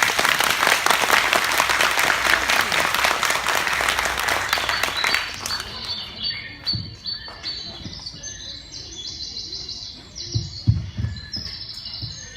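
Audience applauding for about five seconds, the clapping fading out, then birds chirping in short high repeated calls. A few low thuds come near the end.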